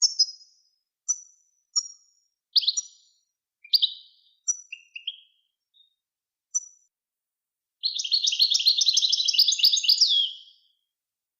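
Songbird song: a string of short, separate chirps and whistled notes, then, about eight seconds in, a dense, fast twittering phrase lasting close to three seconds. It is a recorded song phrase of the kind played to teach cage birds.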